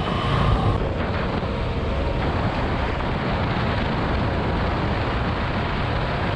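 Steady wind and road noise on an action camera's microphone while riding an electric motorcycle. A horn tone carries on from before and stops about a second in.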